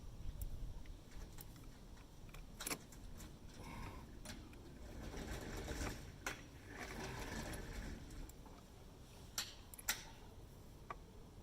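Faint, scattered clicks and clinks of metal tools and parts being handled, with two sharper clicks near the end.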